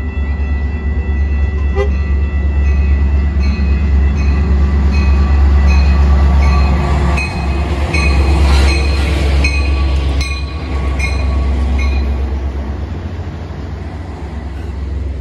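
Metra commuter train's MP36PH-3S diesel locomotive running past close by as it pulls into the station, a heavy, steady engine rumble. A bell rings steadily over it, and a brief hiss of wheels and air comes about eight seconds in as the locomotive passes.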